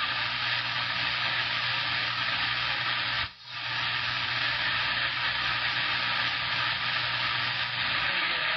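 CB radio receiver static: steady open-channel hiss with a low hum under it, dropping out for a split second about three seconds in.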